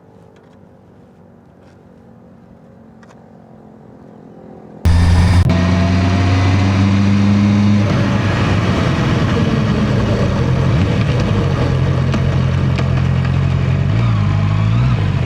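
Faint steady hum for the first few seconds, then a sudden jump to a loud Honda CB650R inline-four motorcycle engine running under way with wind rush. The engine pitch dips and shifts near the end, as with a throttle change.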